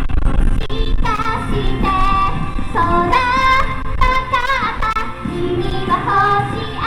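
A female voice singing a Japanese pop song live over amplified pop music, with strong wind buffeting the microphone as a low rumble under it. The sung phrases come in about a second in.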